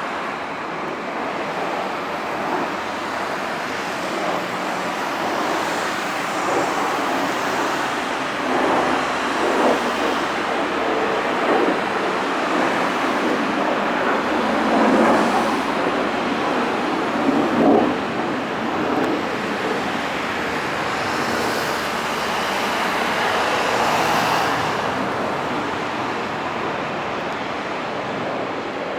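F-15 fighter jet's engines roaring continuously. The noise swells and crackles irregularly from about a quarter of the way in to past the middle, then swells once more before easing off near the end.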